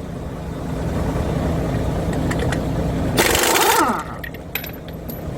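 An engine or machine runs steadily, then a loud burst of power-tool noise with a sliding whine comes about three seconds in and stops abruptly, followed by a few light clicks.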